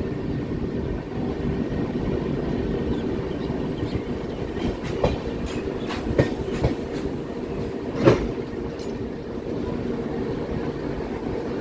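LHB coach of an express passenger train running on the track: a steady rumble with a few sharp wheel clacks, the loudest about eight seconds in.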